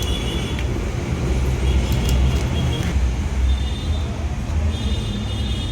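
Steady low rumble of running machinery or traffic, with faint high-pitched chirps now and then.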